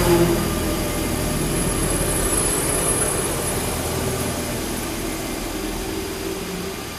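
Double-deck RER D electric commuter train running past along the platform, its wheels rumbling on the rails under a high thin whine from the traction equipment. The sound fades steadily as the train moves away.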